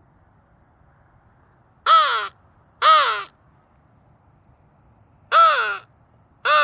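Flextone Lightning Crow call blown in four short caws, in two pairs, each caw rising then falling in pitch.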